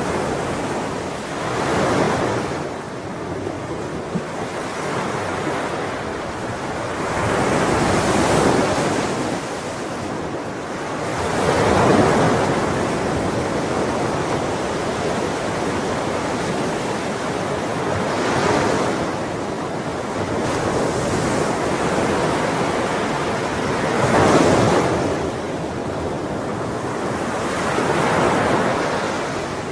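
Sea waves breaking, a continuous wash of surf that swells with each wave about every four to six seconds.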